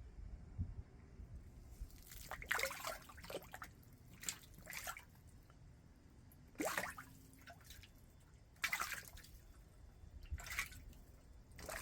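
Bluegill striking at food on the surface of an aquaponics fish tank: about eight sharp, irregular splashes and pops a second or two apart, the loudest near seven and nine seconds in. This is the splashing of aggressive, hungry feeders.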